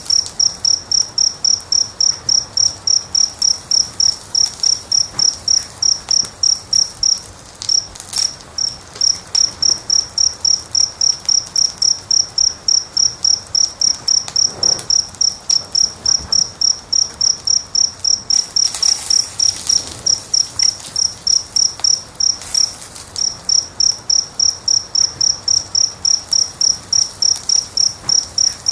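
A cricket chirping steadily, about three high chirps a second, pausing briefly twice. Underneath, a fire crackles faintly with a few soft pops.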